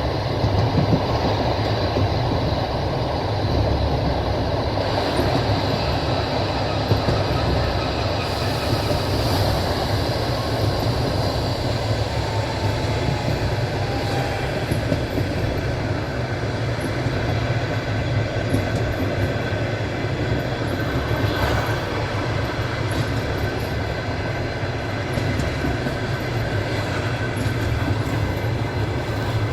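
Passenger train running along the track: a steady rumble of the wheels on the rails, with the clatter of wheels over rail joints.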